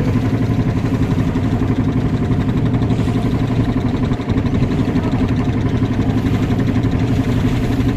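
Motorboat engine running steadily at an even speed, a loud low drone with a fast pulsing beat.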